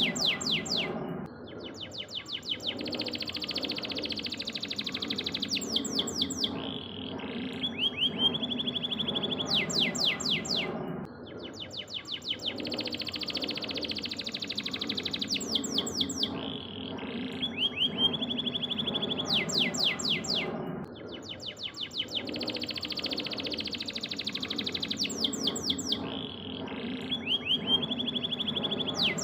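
Canary singing: fast trills, rapid ticking runs and a held high whistled note, the same song sequence repeating about every ten seconds, over a steady low background.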